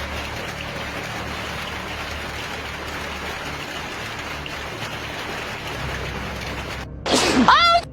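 Heavy rain falling, a steady hiss. Near the end it cuts off abruptly and a loud pitched sound slides quickly in pitch.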